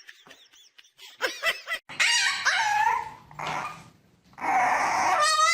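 A dog vocalizing: drawn-out whining calls that rise and fall in pitch, starting about two seconds in and loudest near the end.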